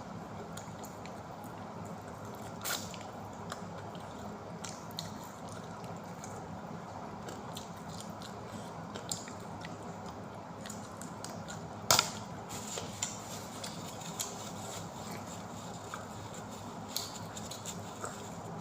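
Someone eating pizza close to the microphone: scattered wet mouth clicks and chewing sounds over a steady background hum, with one sharper click about twelve seconds in.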